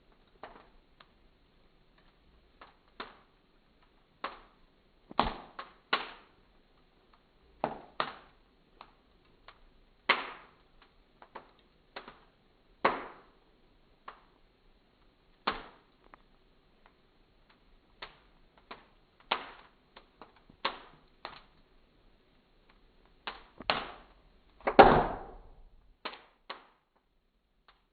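Wood fire crackling: irregular sharp pops and snaps from the burning embers, about one a second, with a louder, longer crackle near the end.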